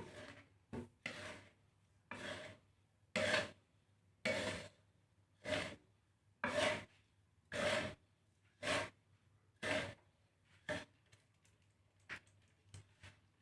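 A millet bird-seed mix being stirred in a pan while dry-roasting: a spatula scrapes through the seeds about once a second, each stroke a rustling scrape, the last few strokes near the end shorter and lighter.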